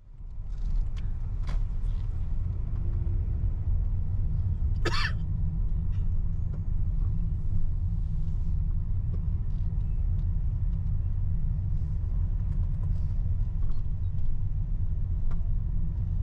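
Steady low rumble in a Bombardier Challenger 605's cockpit before its engines are started, with a few light clicks and a short rising squeak about five seconds in.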